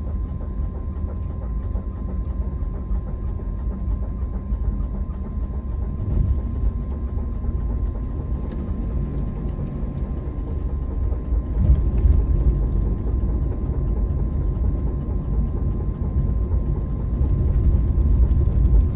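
Daihatsu Hijet Cargo kei van on the move, with a steady low road and drivetrain rumble. Brief higher-pitched noises come through a few times over it. This is the abnormal brake noise whose cause the dealer has not been able to find.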